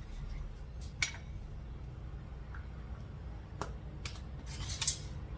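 Light clicks and clinks of a measuring spoon and spice containers while measuring dried seasoning: a single click about a second in, a couple more around the middle, and a louder rattle of clinks near the end.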